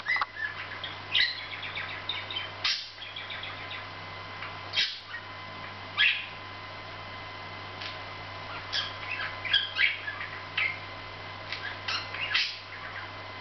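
Budgerigar softly chattering and warbling while drowsing, in short bursts of quick chirps and twitters with sharper single chirps every second or two, over a steady low hum.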